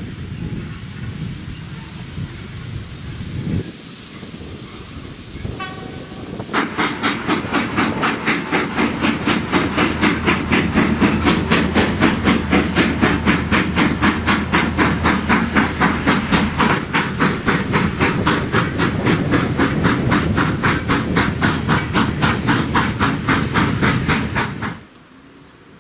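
Steam locomotive working hard, its exhaust chuffing in a fast, even rhythm that cuts off suddenly near the end. Before the chuffing begins there is a low rumble, then a quieter stretch.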